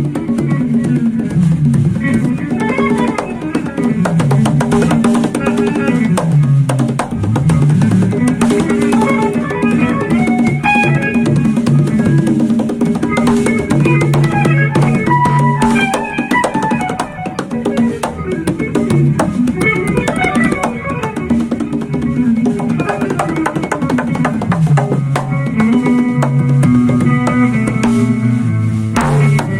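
Band playing jazz-fusion: electric guitar playing quick melodic lines over a bass running up and down and a busy drum kit.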